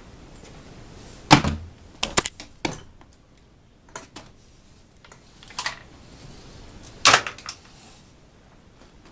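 Irregular sharp knocks and clicks, the loudest a little over a second in and about seven seconds in, with a quick cluster of smaller ones between.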